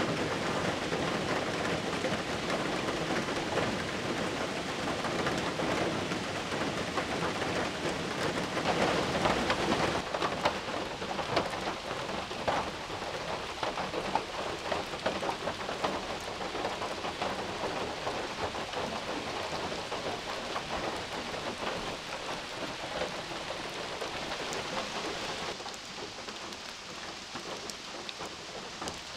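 Heavy rain drumming on a tin shelter roof, dense with individual drop hits, with thunder rumbling through the first ten seconds or so. The rain eases a little near the end.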